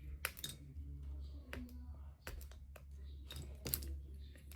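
Lego bricks being handled and pressed together: a string of small, irregular plastic clicks and light clatters, over a steady low hum.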